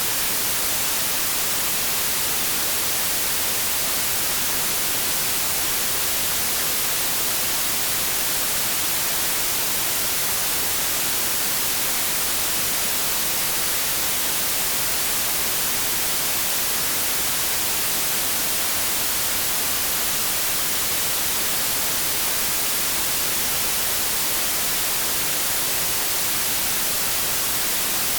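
Continuous generated white noise: a steady, even hiss with no change or interruption, strongest in the high frequencies.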